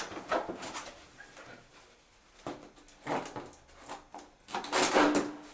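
Scattered light knocks and clicks from objects being handled, with a louder clatter near the end.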